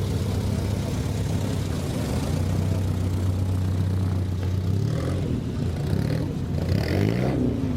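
Car engine running steadily at idle, then revving a few times near the end, its pitch rising and falling.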